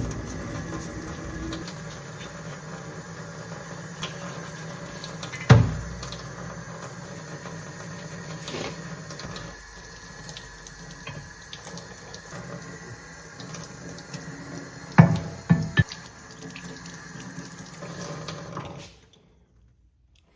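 Water running steadily from a tap while plane parts are rinsed during degreasing, with a knock about five seconds in and three more around fifteen seconds in. The water shuts off suddenly near the end.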